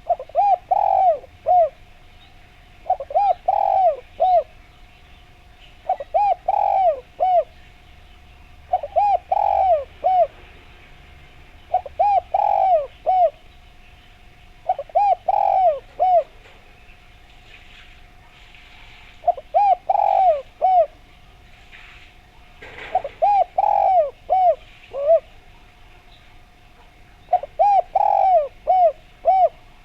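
Spotted dove (derkuku) cooing: a short phrase of several rounded coo notes, repeated about every three seconds. A steady faint tone runs underneath, and small birds chirp faintly in the background.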